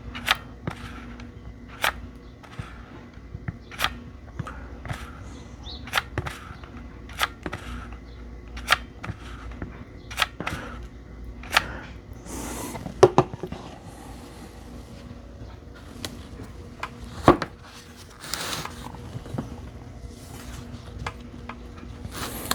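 Sharp, irregular clicks and light knocks, roughly one a second, from hands working the glued cylindrical lithium-ion cells of a battery pack, with a brief rustle twice in the second half over a low steady hum.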